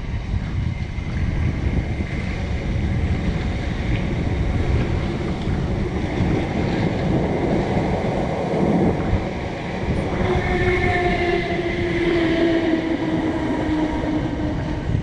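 Class 455 electric multiple unit running under the bridge, its wheels rumbling on the track. A steady whine joins in about two-thirds of the way through and fades near the end.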